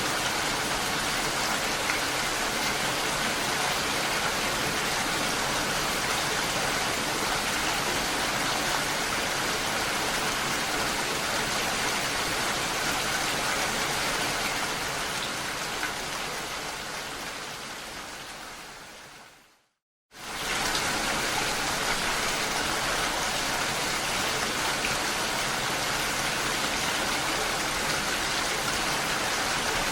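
Steady rain falling, an even hiss. About two-thirds of the way through it fades out over several seconds to a moment of silence, then comes straight back at full level, the join of a looped recording.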